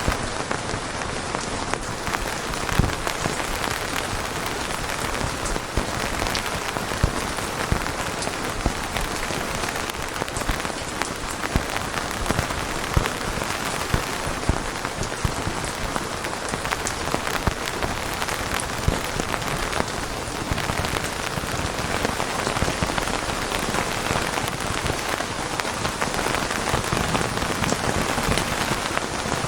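Steady rainfall pattering on a surface, with scattered louder individual drops landing close by.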